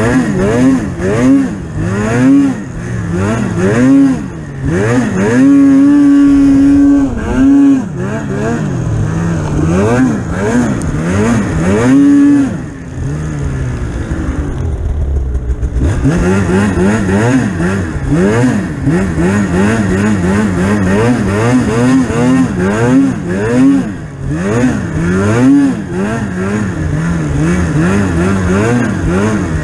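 Polaris Pro RMK 800 snowmobile's two-stroke twin engine being throttled hard, its pitch rising and falling over and over as the rider blips and holds the throttle. It holds a high rev briefly a few times and eases off for a couple of seconds near the middle.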